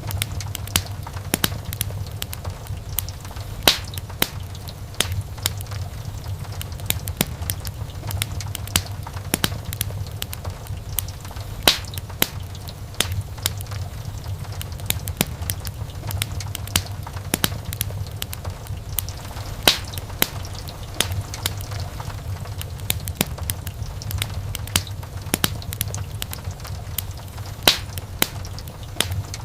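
Wood fire crackling steadily, with frequent small snaps and sharper pops every few seconds over a low, steady rumble of the flames.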